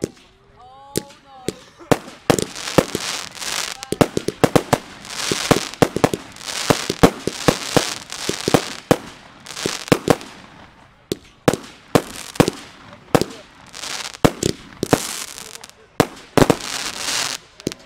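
Aerial fireworks going off in a rapid barrage: many sharp bangs in quick volleys with crackle between them. The barrage starts about two seconds in and runs on densely.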